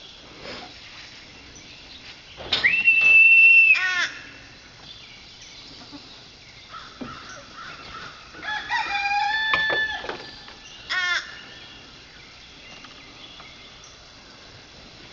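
Barred Rock rooster crowing: one loud crow about two and a half seconds in, a long held note that drops away at the end. A quieter call with several pitches follows about eight and a half seconds in, then a short call near eleven seconds.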